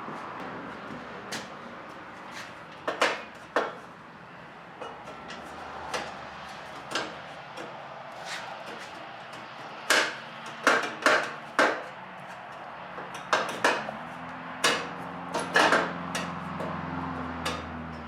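Irregular sharp metal clinks and knocks of hand tools and exhaust parts being fitted to a lawn tractor engine, coming in small clusters, the loudest run about ten to twelve seconds in.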